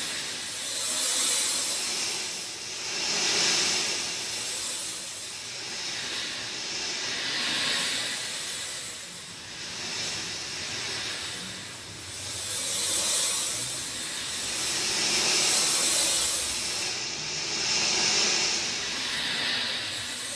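Rain falling: a steady hiss that swells and eases every few seconds.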